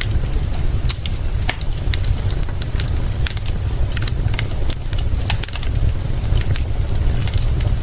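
Wood fire crackling with frequent irregular sharp pops, over a steady hiss of rain and a constant low rumble.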